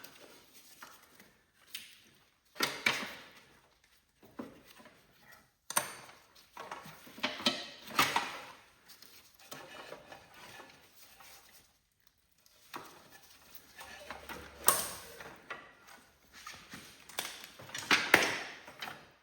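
Irregular clanks, knocks and clicks of metal tools and parts being handled during tractor disassembly, with quiet gaps between; the loudest knocks come about eight seconds in and near the end.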